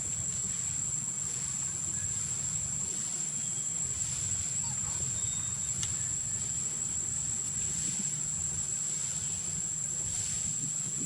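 Outdoor ambience dominated by a steady, high-pitched insect drone, over a low background rumble, with a few faint short chirps.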